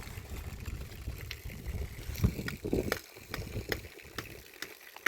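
Water dripping at a steady pace, about two drops a second, with low rumbling noise over the first few seconds.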